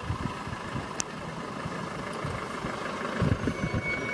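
Vehicle engine idling steadily, with irregular low bumps and a single sharp click about a second in.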